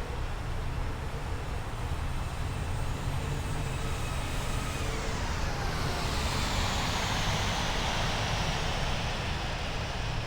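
Jet airliner passing by: a steady rumble with a rising rush of engine noise, and the engine whine falling in pitch from about four seconds in as the aircraft goes past.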